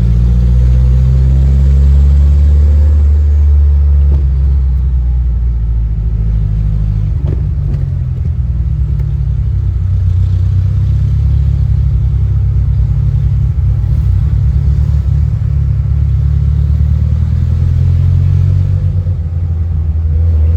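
Classic Ferrari engine running as the car drives, a deep, steady engine note that eases off and picks up again a few times.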